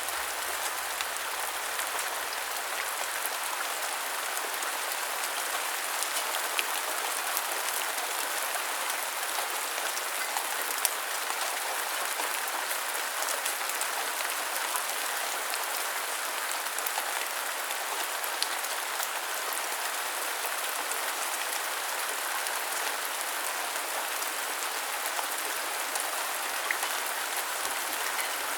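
Steady rain: an even hiss of falling rain with scattered louder drops ticking through it.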